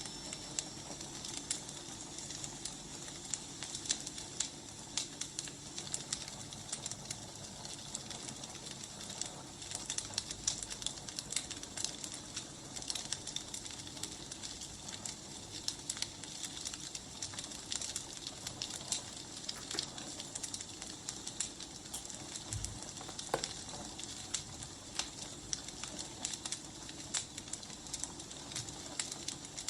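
Wood fire crackling: a steady soft hiss with many small irregular pops and snaps, and one louder pop about three-quarters of the way through.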